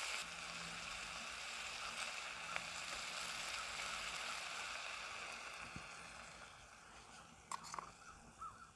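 Diced food sizzling in a titanium pan over a paraffin-wax buddy burner, a steady hiss that slowly fades. Near the end, a few short clicks and scrapes as a spoon stirs the food in the pan.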